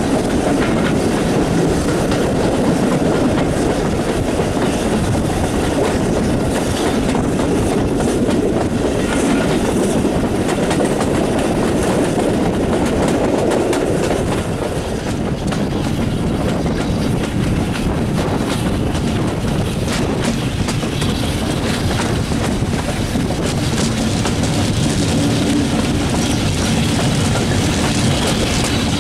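Heritage steam-hauled train running, heard from an open carriage window: a steady, loud running rush with wheels clicking over rail joints.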